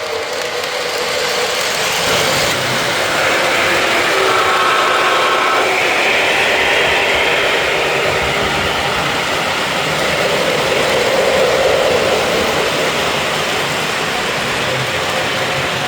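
O-gauge Santa Fe model diesel locomotives (Menards Black Bonnet, MTH Dash 8 and Lionel LionChief U36B) running on a layout: a steady mix of wheels rolling on track, motor hum and diesel engine sound effects. A brief multi-note tone comes in about four seconds in.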